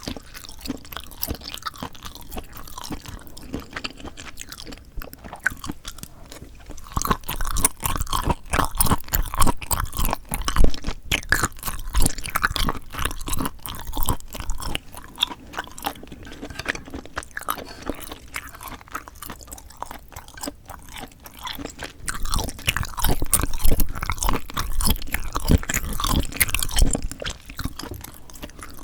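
Close-miked chewing of a meal of whelks and spicy cold mixed noodles, a dense run of crunchy mouth sounds. It grows louder and busier about seven seconds in and again about twenty-two seconds in.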